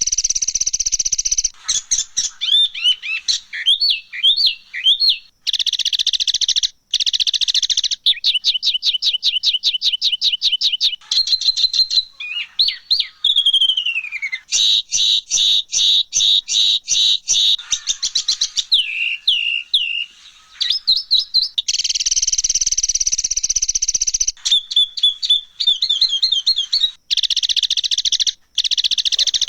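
Recorded songbird calls of the harsh, rough 'kasaran' kind used as tutor material for caged songbirds. They come as loud, high-pitched phrases: fast strings of repeated notes, buzzy chattering trills and a falling whistle about halfway through. The phrases start and stop abruptly between one another.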